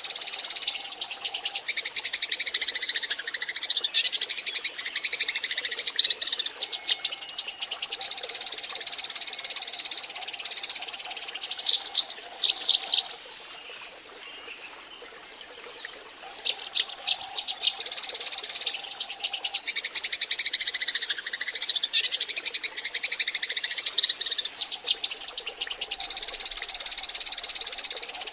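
A flock of Eurasian tree sparrows chirping densely and rapidly. The chirping drops away for a few seconds about halfway through, then starts again just as thick.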